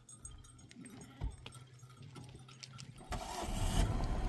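A motor vehicle's engine running with a steady low hum and a few faint clicks, then a much louder rush of noise with a low rumble from about three seconds in.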